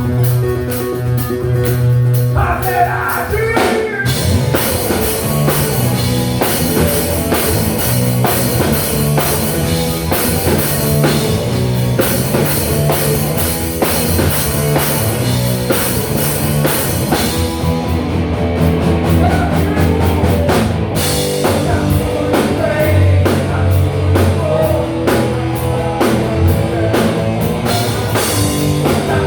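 Live rock band playing with drum kit, electric guitar and bass, a sung vocal line coming in about two and a half seconds in.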